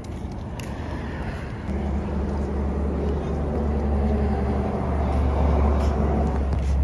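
Vehicle engine running with a low steady hum that grows louder and fuller about two seconds in and keeps building.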